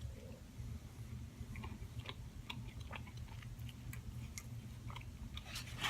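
Close-up chewing of a breakfast burrito, with small wet mouth clicks scattered through and a louder bite near the end, over a steady low hum.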